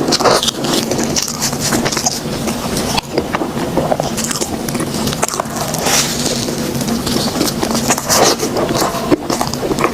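Close-miked mukbang eating: biting and chewing bread, with crackly, moist mouth sounds that swell roughly every two seconds as new bites are taken.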